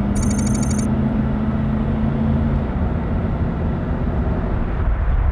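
A motor vehicle's engine running with a steady low hum that changes about two and a half seconds in, over continuous rumbling noise. A brief high-pitched chirp sounds near the start.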